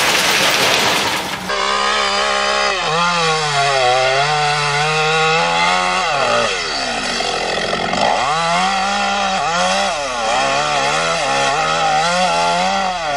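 Chainsaw engine running hard while cutting, its pitch repeatedly sagging under load and picking up again. This is preceded, about a second and a half in, by a loud rushing noise.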